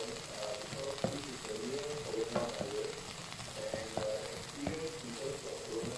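Cabbage, bell peppers and beaten egg sizzling in an oiled non-stick pan as a spatula stirs them, with a few light knocks and scrapes of the spatula against the pan.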